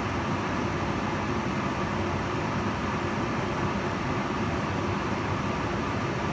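Kitchen range hood fan running steadily: a constant rush of air with a low hum underneath.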